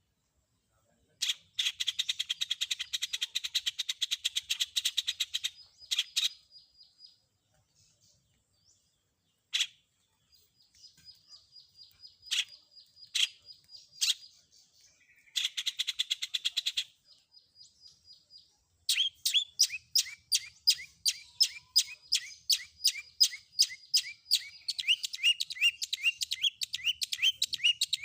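Long-tailed shrike (cendet) singing its varied mimicry song: bursts of fast, harsh chattering, a thin high trill, then about two-thirds of the way in a quick run of repeated downward-sweeping notes, about three a second.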